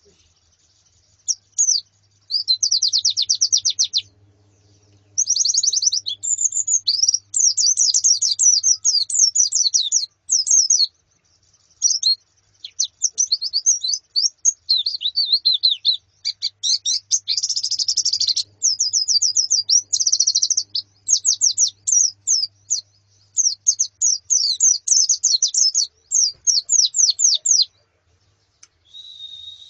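White-eyes (pleci), a female and a flock, calling in bursts of fast, high trilled chirps with short gaps between them, breaking off shortly before the end.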